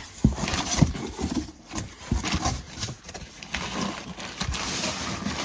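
Irregular knocks and clunks of engine parts being handled on the floor, with a stretch of rustling about two-thirds of the way through.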